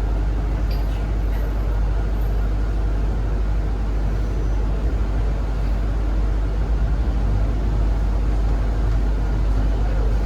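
Zhongtong hybrid range-extender bus running, heard from inside the cabin: a steady low rumble with no sharp events.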